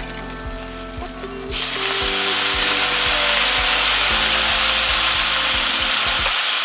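Background music, then from about a second and a half in a loud, steady hiss that holds without any rhythm.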